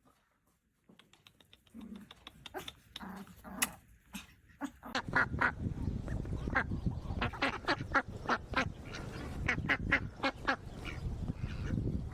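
Ducks quacking in many short calls, scattered at first and then coming thick and fast from about five seconds in, over a low rumble.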